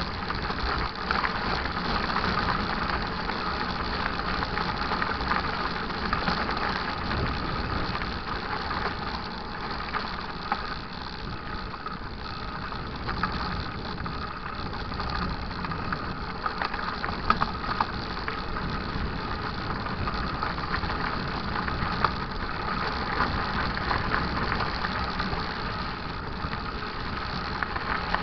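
Mountain bike riding over a dirt trail: a steady rush of tyre and trail noise with constant small rattles and knocks from the bike.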